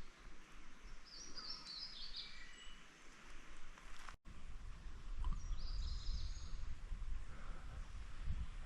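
A songbird singing two short phrases of quick, stepped, falling notes, about a second in and again near six seconds. After a brief dropout about four seconds in, a low rumble rises underneath.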